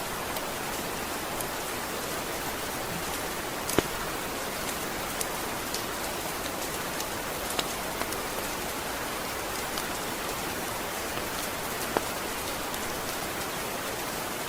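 Steady rain falling, with a few louder, sharper single drop hits standing out, the strongest about four seconds in and again about twelve seconds in.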